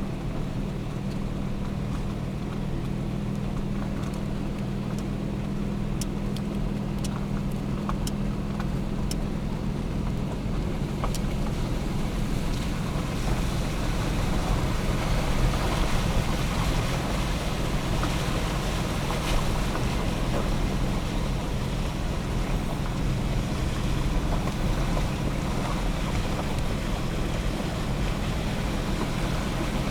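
Vehicle driving along, its engine hum under a steady rushing of road and wind noise that grows a little louder about twelve seconds in.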